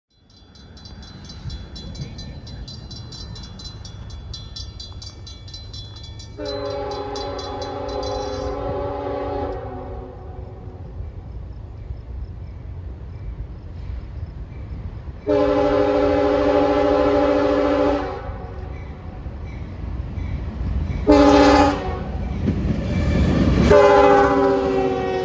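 Diesel locomotive horn sounding the grade-crossing signal: two long blasts, a short one and a final long one, its pitch dipping at the start of the last blast. A crossing bell rings quickly in the first few seconds, over the steady rumble of the approaching train.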